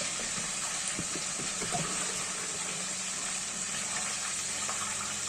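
Kitchen tap running steadily into a sink, with a couple of faint knocks about a second in.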